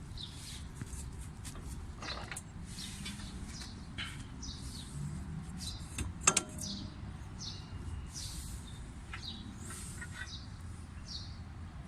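Small birds chirping over and over, short high falling notes, with one sharp click a little past the middle.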